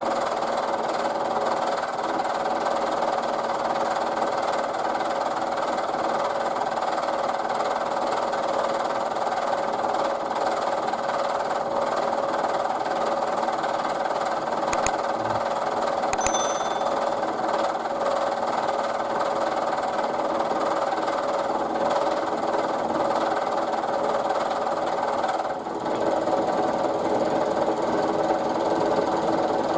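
Milling machine cutting a step into a fixture plate, the end mill chattering as it goes: the workpiece sticks up high and the cut is wide, about half a millimetre deep. The note shifts briefly about 26 seconds in, with a couple of light clicks midway.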